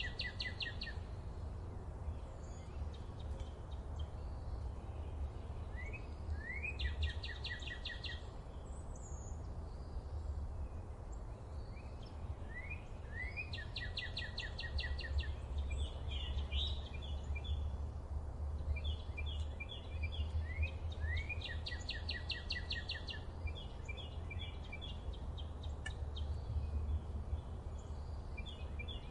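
Songbirds singing in a forest. One bird repeats the same short song about every six to seven seconds, a few quick rising notes followed by a fast trill, and a second bird sings short stuttering phrases between its songs. A steady low rumble runs underneath.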